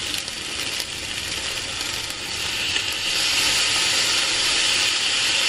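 Fried rice sizzling in a hot frying pan. The sizzle grows louder and hissier about halfway through, as more liquid is poured into the pan.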